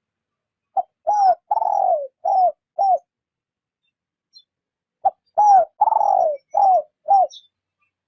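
Spotted dove cooing, the gentle 'rút bổi' coo of a decoy bird: two phrases of five coos, the third coo in each longer and falling in pitch.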